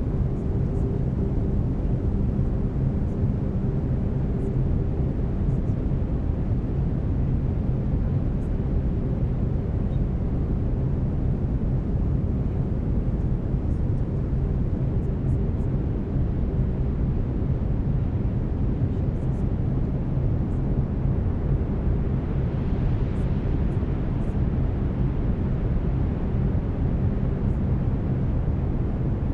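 Brown noise: a steady, deep rushing hiss with no breaks, with faint steady low tones from binaural beats held underneath it.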